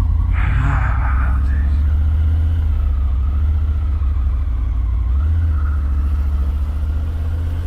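Triumph Tiger 900's three-cylinder engine running as the motorcycle pulls away, a steady low rumble, with a brief hiss in the first second.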